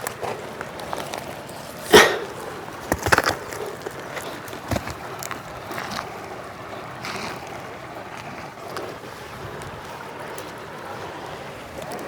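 Steady rush of a flowing river, with a few sharp knocks and thumps; the loudest comes about two seconds in, followed by a quick cluster a second later.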